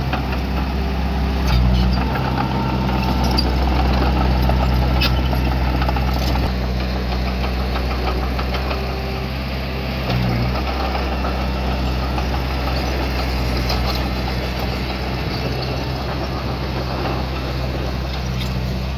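Heavy-equipment diesel engine running steadily, its note shifting briefly twice, with a few faint clicks.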